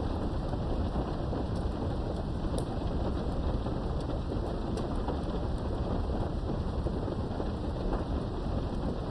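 Steady rain heard from indoors behind a window, with scattered sharp drop ticks over a low rumble of thunder.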